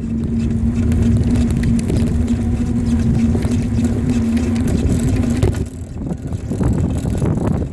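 Rumble of wind on the microphone while riding a bicycle, with a steady hum that cuts off about five and a half seconds in.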